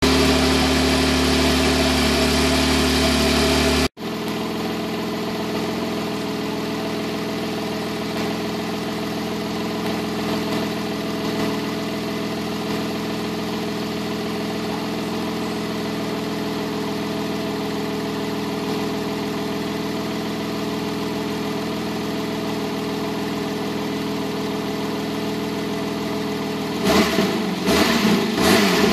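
Porsche 991.2 Carrera S's 3.0-litre twin-turbo flat-six idling steadily. It is louder for about the first four seconds, then drops abruptly to a quieter, even idle. A few brief louder noises come near the end.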